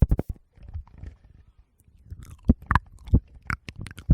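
Close-miked ASMR trigger sounds: a run of short, sharp clicks and pops with soft low thumps. A cluster comes at the start, then a pause of about a second, then more pops near the end.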